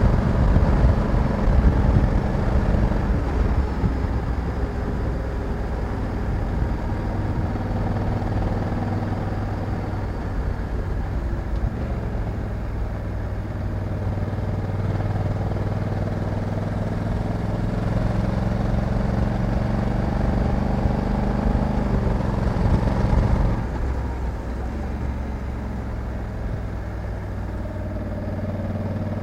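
Honda Africa Twin 1100 DCT's parallel-twin engine running under way. The engine note climbs slowly, then drops suddenly about 23 seconds in.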